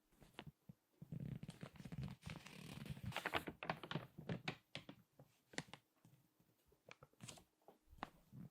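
Crinkly magazine pages being squeezed and handled: a dense stretch of paper crackling from about one to four seconds in, then scattered single crackles.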